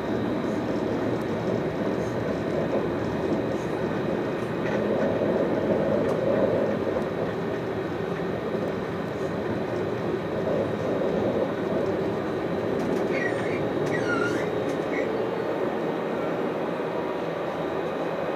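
Alstom Citadis 403 tram running along the line, a steady rolling rumble of wheels on rail. A few short high squeaks come about two-thirds of the way through.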